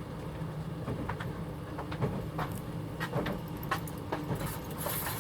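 Sleeper train running at speed, heard from inside the carriage: a steady low rumble with scattered knocks and rattles. A hiss rises for about a second near the end.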